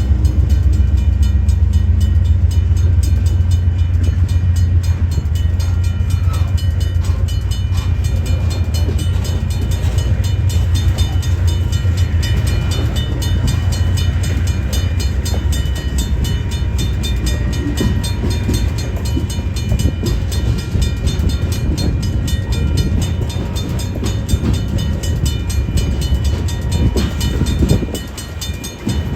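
Diesel-hauled freight train rolling by, a deep locomotive engine rumble with steel wheels running on the rails. The sound dips briefly near the end.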